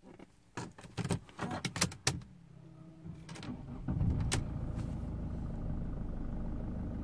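A few clicks of the key in the ignition switch, then, about four seconds in, the 2010 Mercedes CLC220 CDI's four-cylinder diesel starts and settles into a steady idle, heard from inside the cabin.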